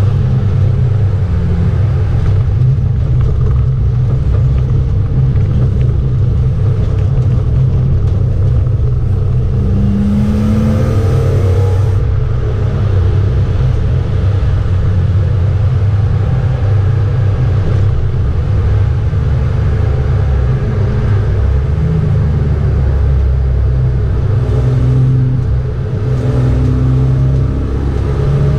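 BMW 325 E36 track car's engine pulling hard at speed, heard from inside the cabin with a steady low drone. The engine note climbs about a third of the way in and again later, with two short dips in level near the end.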